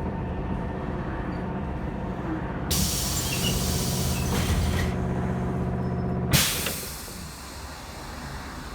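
Bogdan T90110 trolleybus's electric traction drive whining steadily from inside the cabin. A hiss of compressed air starts about three seconds in and lasts about two seconds. A second sharp air hiss comes about six seconds in, just as the drive's whine cuts off and the sound drops quieter.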